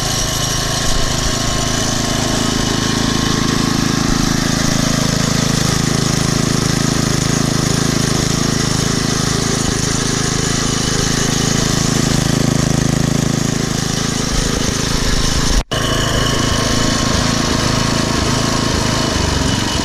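5 hp horizontal-shaft Briggs & Stratton engine on a garden tiller running steadily as it warms up. The sound drops out for an instant about three-quarters of the way through.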